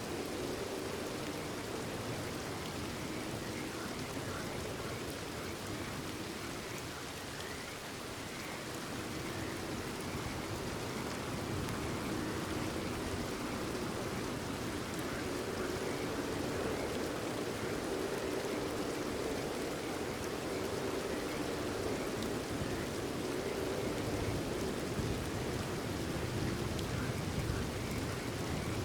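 Steady rain falling, with a chorus of frogs calling under it.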